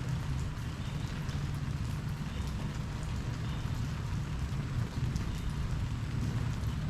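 Steady rain falling during a thunderstorm, with a constant low rumble underneath.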